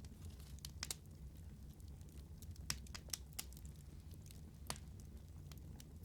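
Wood fire burning in a fireplace: a low steady rumble of flame with scattered sharp crackles and pops, the loudest pops about a third and three quarters of the way in.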